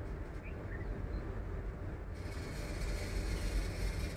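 Train running along the track, heard from on board: a steady low rumble of the wheels on the rails, with a higher hiss joining about halfway through.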